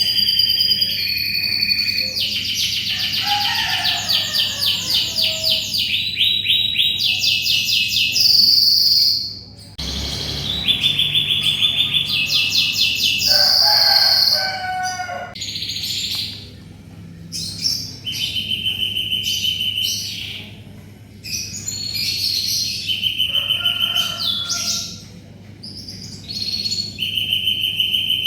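Domestic canary singing vigorously: long, fast rolling trills of rapidly repeated notes, changing from phrase to phrase, with short pauses between phrases and a brief break about ten seconds in.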